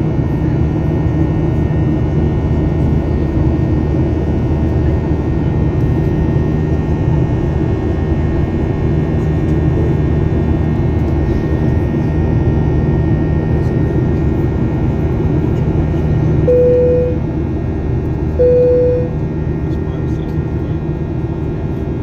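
Airliner cabin noise: the jet engines drone steadily. Near the end, two short tones of the same pitch sound about two seconds apart, like cabin chimes.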